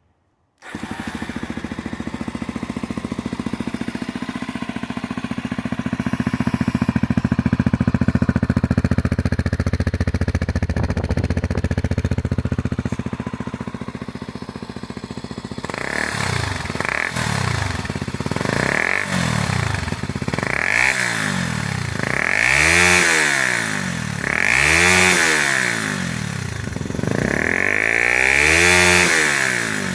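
Honda XR250 Baja's air-cooled single-cylinder four-stroke engine, breathing through an aftermarket BEAMS muffler, running steadily. From about halfway it is revved repeatedly, about seven throttle blips that rise and fall, the later ones held longer.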